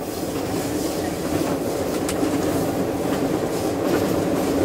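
A diesel locomotive running along the track, heard from inside its cab: steady engine and running noise with a few clicks from the wheels, growing slightly louder.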